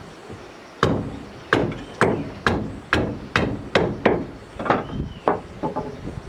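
Repeated hard blows of a hand tool on wood, about ten sharp strikes at roughly two a second, each with a short ringing tail, starting about a second in.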